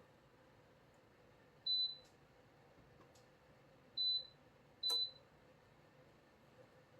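DREO space heater's control panel giving three short high-pitched beeps, the second and third close together, the acknowledgment tones of button presses on the panel or remote.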